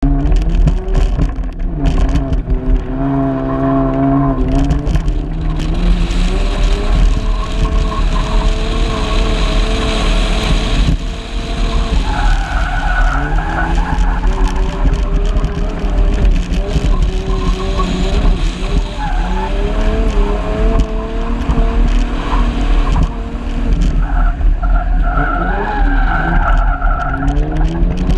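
Car engine driven hard on loose dirt, its pitch climbing and dropping again and again through gear changes and corners, with tyres skidding on the dirt. A heavy low rumble of wind buffets the outside-mounted camera microphone.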